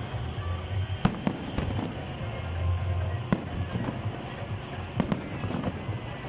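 Fireworks display: sharp bangs of bursting shells, the loudest about a second in and more a few seconds later, over a low continuous rumble.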